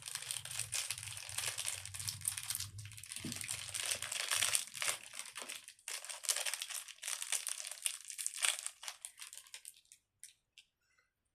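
Small plastic packets crinkling and tearing as they are opened by hand. The crinkling stops near the end, leaving a few faint clicks.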